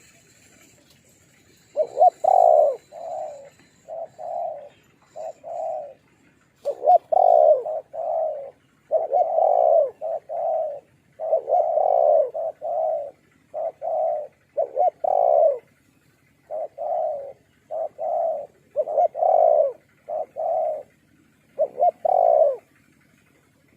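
Spotted doves cooing: repeated phrases of low, round coo notes with short pauses between them, the deep rounded voice prized in Thai dove-luring.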